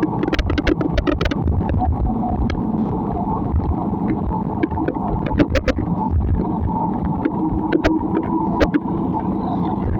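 Steady low rumble of a moving vehicle, with irregular sharp ticks several times a second.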